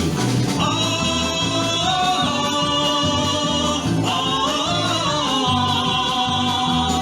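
Singing of a Cossack folk-style song over instrumental backing, with long held notes that shift pitch a few times.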